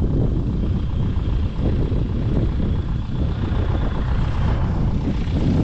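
Gusty wind of about 20–25 mph buffeting the microphone in a loud, steady low rumble. A faint high-pitched squeal from the highway is heard in the middle.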